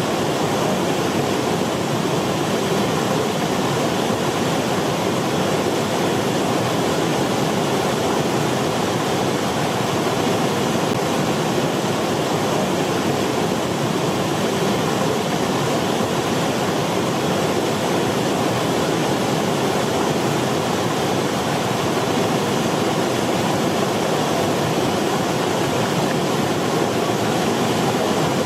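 A steady, even rushing noise with no rhythm, tones or separate events.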